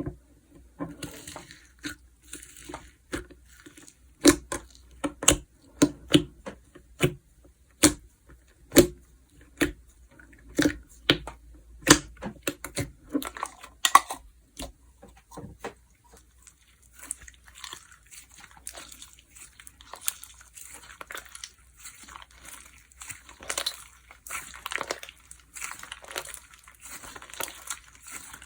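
Slime being squished and stretched by hand: a string of sharp clicking pops for about the first half, then a denser, continuous crackling and crinkling.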